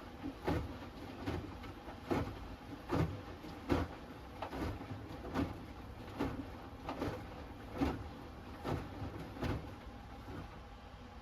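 Hoover Axi 10 kg front-loading washing machine tumbling a wash on its Rapid 30' programme: the wet laundry drops with a soft thump and slosh about once every 0.8 s over a low hum. The thumps stop about ten seconds in.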